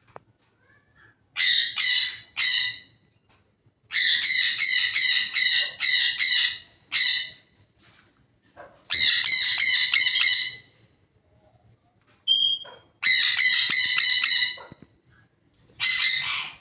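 Lovebirds calling loudly in high-pitched, rapid-fire bursts of repeated notes, five bouts of about one to three seconds each with short pauses between.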